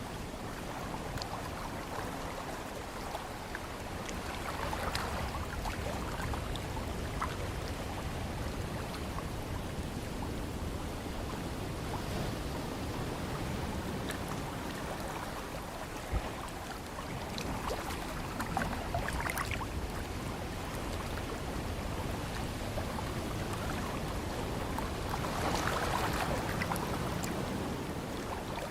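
Ocean surf: a steady rushing wash of waves that swells louder a few times as waves break and draw back.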